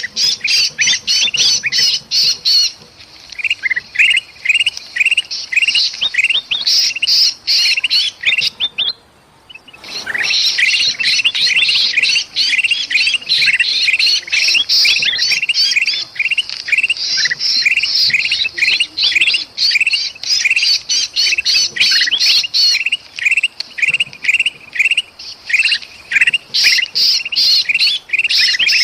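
Bulbuls giving rapid, agitated chattering and squawking calls, many overlapping: the noisy alarm and distress calls of a trapped bulbul and its flock. The calls thin out about three seconds in, then break off for about a second before resuming at full density.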